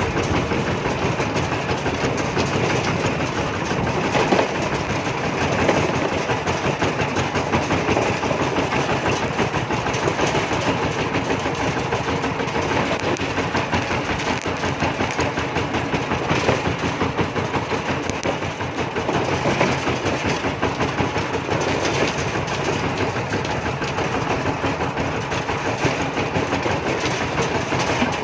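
Kubota RT140 single-cylinder diesel engine of a walking tractor running steadily, with a fast, even chugging and a rattling clatter.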